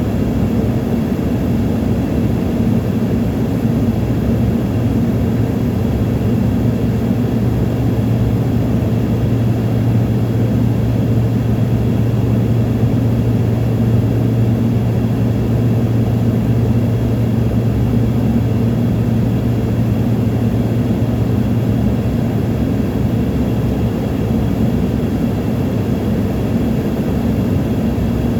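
Airliner cabin noise in flight: a steady rush of engines and airflow, with a low hum that fades out about three quarters of the way through.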